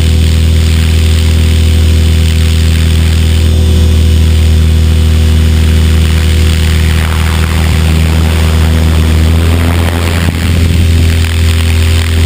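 HK500 radio-controlled helicopter in flight, heard from a camera mounted on it: a loud, steady drone of the main rotor and drivetrain with a whine above it, its pitch wavering a little from about seven seconds in.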